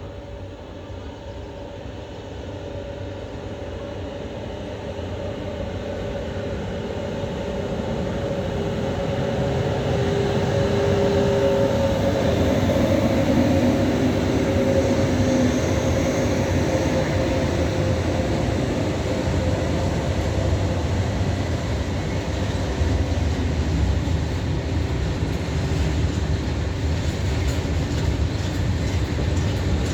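A train drawing closer and passing, its locomotive humming steadily. The train grows louder over the first ten seconds or so, then stays loud, and wheels start clicking over rail joints near the end.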